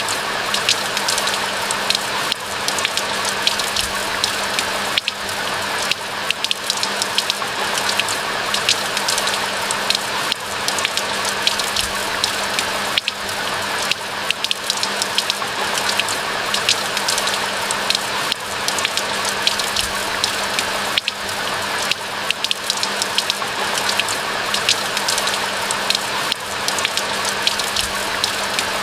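Steady rain falling, with many individual drops ticking sharply over a dense hiss of rainfall. A low steady hum runs underneath.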